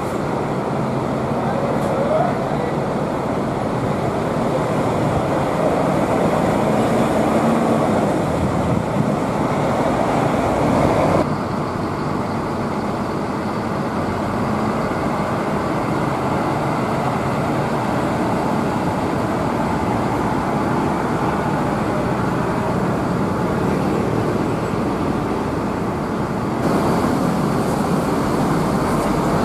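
Steady din of buses and road traffic with engines running. The sound changes abruptly about eleven seconds in and again near the end.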